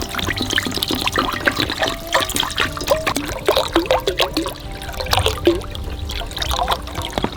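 Water bubbling and trickling in an iron pot, with many short rising blips and scattered small clicks.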